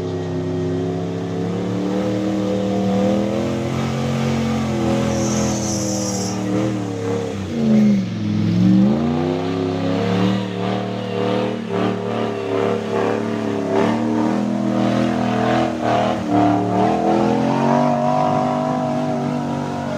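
Truck engine running loudly at a steady pitch, which drops and climbs back about eight to nine seconds in, then runs on with a rougher, uneven sound.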